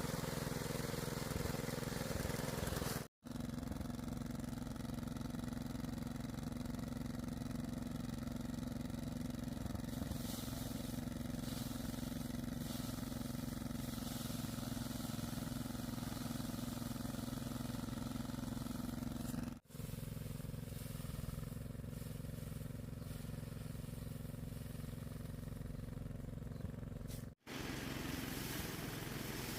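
A steady engine running, broken by three brief sudden dropouts.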